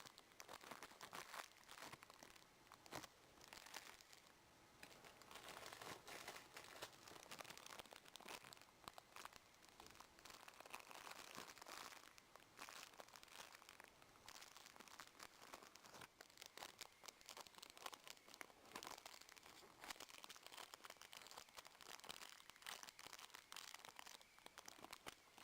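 Faint crinkling and rustling of plastic packaging being handled, with many small irregular crackles and occasional tearing.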